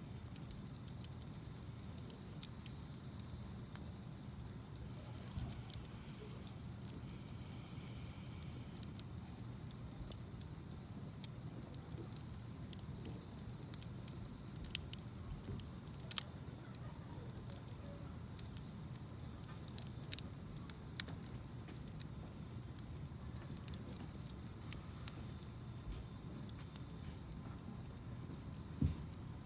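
Wood campfire burning: a steady low rumble of flames with scattered sharp crackles and pops. A few louder pops come about halfway through, and one comes near the end.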